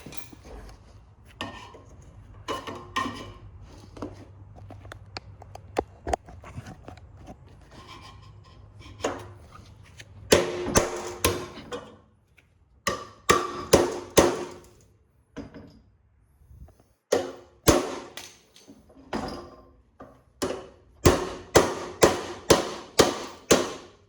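Hammer blows on a chisel, trying to break off a stuck screw. Light knocks and clatter at first, then groups of sharp strikes from about ten seconds in, ending with a quick run of about six blows.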